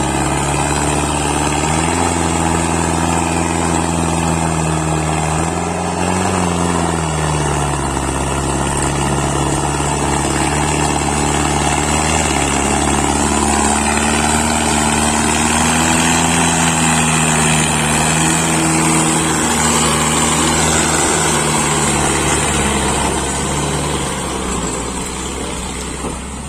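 Mahindra tractor's diesel engine running steadily. Its pitch rises and falls briefly about six seconds in and shifts slightly a few other times, and it gets a little quieter near the end.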